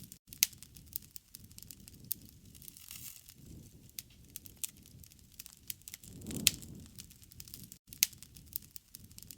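Wood campfire burning: scattered sharp pops and crackles over a low rushing of flames that swells about six seconds in.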